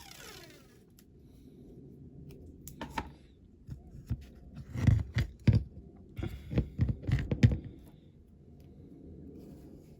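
Masking tape being pulled off, torn and pressed onto a die-cast toy van, with clicks and knocks of handling: a short falling squeal at the start, then a cluster of sharp clicks and thumps from about three to seven and a half seconds in.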